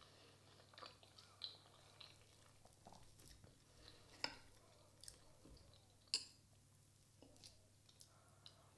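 Faint chewing of a soft chocolate crepe, with scattered small clicks of a metal fork on a ceramic plate; the sharpest ticks come about four and six seconds in.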